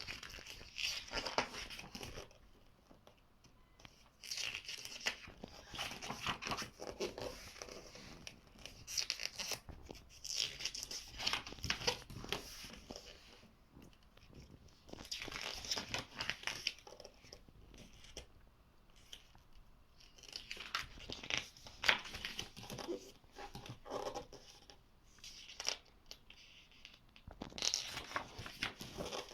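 Pages of a thick print-and-pattern book being turned by hand, one after another: a papery rustle and flap every few seconds.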